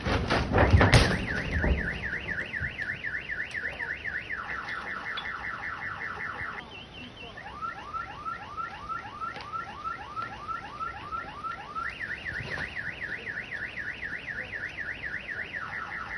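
Car alarm cycling through its siren tones: a fast up-and-down warble, then steady rapid beeping, then a run of rising whoops, then the warble again. A few loud knocks come in the first two seconds.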